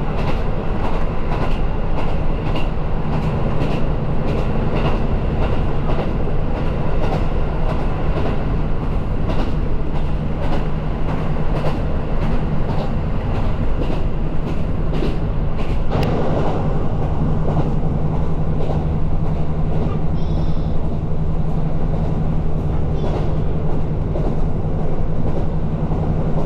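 Train running along the line: a steady low drone with wheels clacking over rail joints, the clacks most frequent in the first half.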